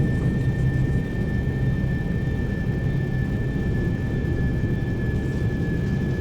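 Jet aircraft engine noise: a steady rumble with a thin, steady high whine over it.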